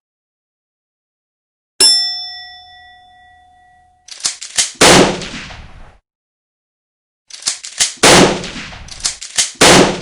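A single bell ding about two seconds in, ringing out and fading over about two seconds. It is followed by two clusters of rapid, sharp, loud bangs, the second cluster longer.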